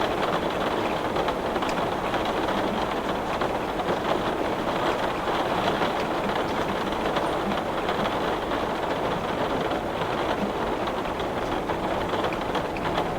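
Heavy rain pelting a glass pane: a steady, dense patter of drops without a break.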